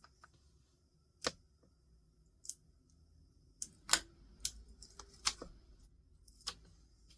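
Light clicks and taps from stationery being handled at a desk, about eight at uneven intervals, the loudest a little past the middle.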